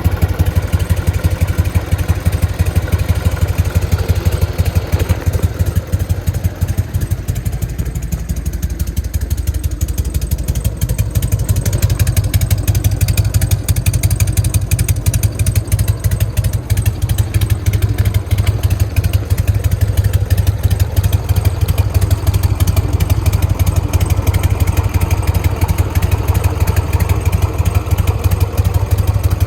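Harley-Davidson Evolution V-twin idling through fishtail mufflers, a steady low, loping 'potato-potato' exhaust beat. The irregular three-beat rhythm comes from an ignition kit fitted to produce it.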